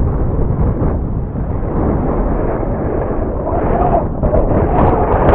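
Strong wind buffeting the microphone in a continuous low rumble. A faint whine from the RC plane's electric motor, rising and falling, comes through near the end.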